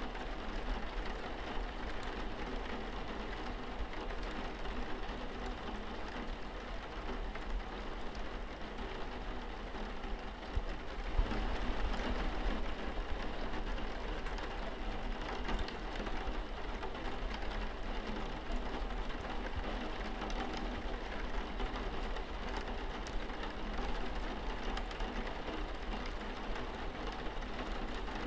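Steady rain pattering on window glass, a dense even hiss of drops that grows a little heavier about eleven seconds in.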